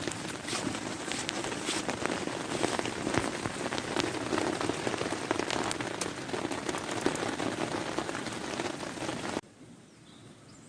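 Heavy rain pouring onto a tarp, a dense hiss full of sharp individual drop taps. It cuts off abruptly near the end.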